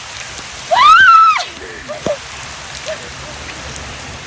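Steady rain hiss. About a second in comes one loud, high-pitched yell that rises and then holds for around half a second.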